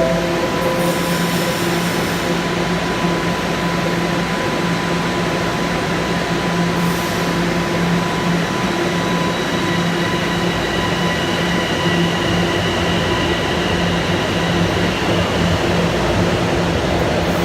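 Bombardier Toronto Rocket subway train running, a steady loud noise carrying a low hum and thin high whining tones; a higher whine joins about ten seconds in and fades near the end.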